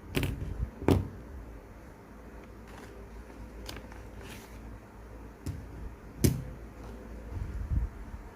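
Scattered sharp clicks and taps of small parts and tools being handled on a work surface, about five of them, with a few dull knocks near the end over a low steady hum.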